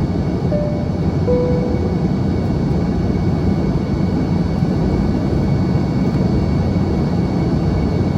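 Steady cabin drone of an Embraer ERJ-145 in flight: the rear-mounted Rolls-Royce AE3007 turbofans and airflow as a dense low rumble with a faint high whine. Two short faint tones sound in the first two seconds.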